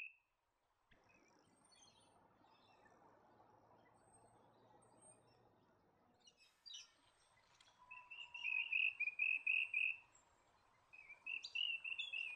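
Rainbow bee-eaters calling: runs of short, rapidly repeated rolling notes, starting about eight seconds in and again near the end, after a stretch of faint background hiss.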